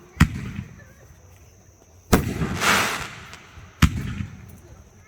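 Aerial fireworks bursting: three sharp booms spaced about two seconds apart, each fading with a rumbling echo, the second followed by a rush of crackle.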